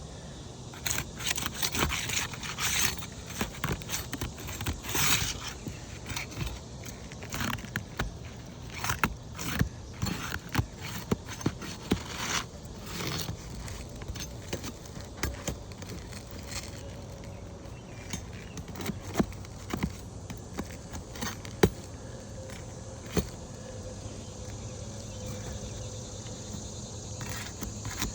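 Metal pry bar scraping and clicking against asphalt roof shingles as they are worked loose: irregular scrapes and taps, busiest in the first half and sparser later.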